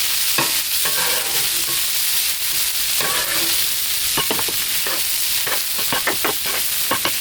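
Cubed pork loin sizzling steadily on a hot Blackstone flat-top griddle, with a spatula clicking and scraping against the steel top now and then, several times in quick succession near the end.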